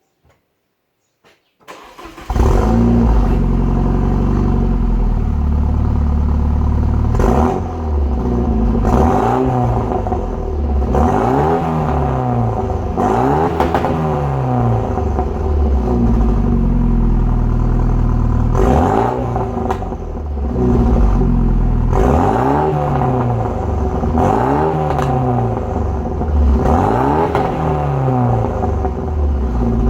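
Renault Mégane II RS 2.0 turbo four-cylinder with a straight-through Scorpion exhaust, 3-inch downpipe and the catalytic converter removed, started from cold. It catches about two seconds in and settles into a fast idle. It is then blipped about a dozen times, the revs rising and falling each time.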